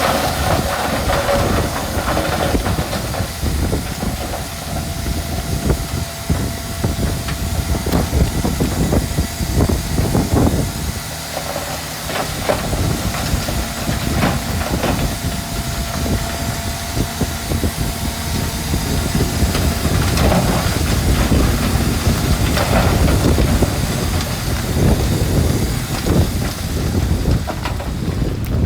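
Heavy diesel earth-moving machinery working, a steady deep rumble with scattered knocks and a faint steady whine, with wind buffeting the microphone.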